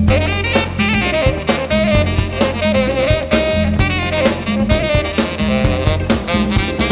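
Live jazz-funk band playing, a saxophone carrying the melody over bass and drum kit.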